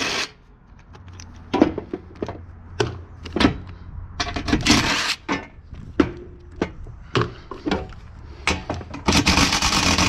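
Work on a stuck screw in aluminum scrap: scattered knocks and clanks of metal being handled, with two longer scraping bursts, one about halfway and one near the end.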